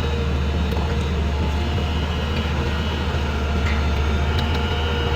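Diesel engine of heavy construction equipment running at a steady speed, a deep even drone.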